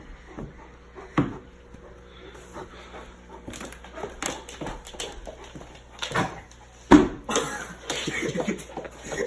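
A dog moving about, with scattered knocks and thumps, the loudest about seven seconds in.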